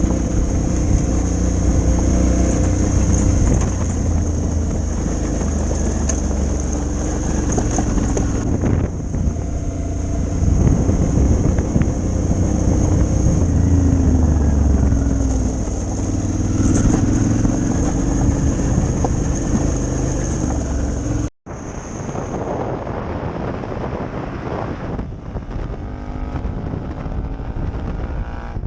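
Motorcycle engine running on the move, its pitch rising and falling with road speed. About three-quarters of the way through, the sound cuts out abruptly and resumes quieter, and near the end the engine pitch climbs as the bike accelerates.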